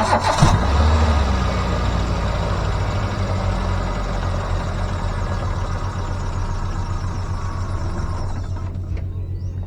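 Car engine starting, its speed flaring up about half a second in and then settling to a steady idle, under a loud hiss that cuts off near the end.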